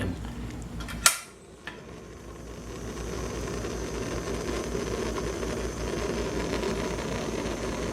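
A sharp click about a second in, then a steady rushing noise that builds over a few seconds and holds: a gas stove burner being lit and running under an empty wok as it heats up.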